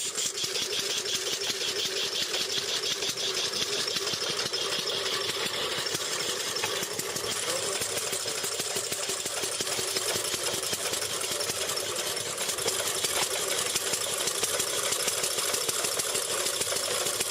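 Two-cylinder gasoline engine of a Ford Quadricycle reproduction running steadily with a rapid clatter.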